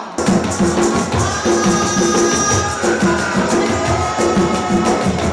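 Live Afro-Puerto Rican percussion music: hand drums keep a steady beat under jingling, shaker-like percussion, starting abruptly just after the start, with a long held note above from about a second in.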